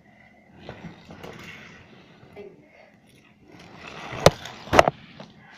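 Plastic toys, toy cars and Lego pieces, being shoved and knocked over, rattling and clattering, with two loud knocks a half-second apart near the end.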